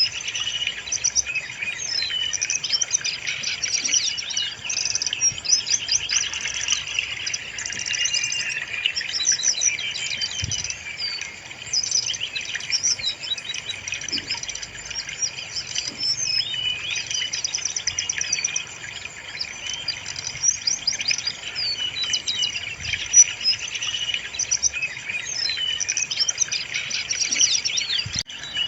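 Brown-chested jungle flycatcher singing without a break, a dense run of quick, high chirps and trills.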